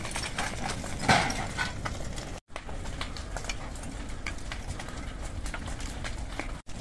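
Crackling and popping of a burning house fire: a steady noisy rush with many irregular sharp snaps, cut off briefly twice.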